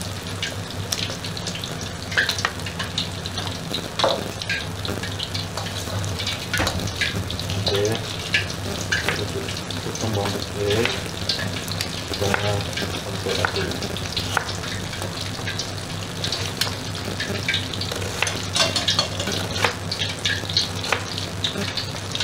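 Chicken wings frying in hot oil in a steel wok: a steady sizzle with many sharp crackles and pops, and clicks of metal tongs against the wok as the pieces are turned. A steady low hum runs underneath.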